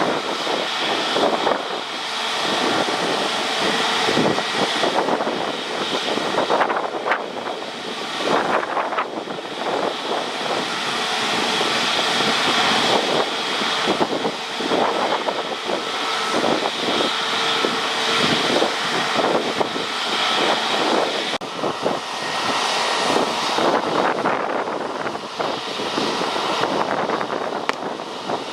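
Jet airliner engines running, a steady noisy rush with a whine in the upper range. The sound changes abruptly about three-quarters of the way through.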